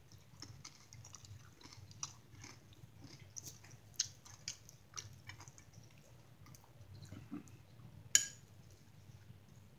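A person chewing a cracker topped with tuna, mouth closed, with faint crackly crunching throughout. There is one sharp click a little after eight seconds in.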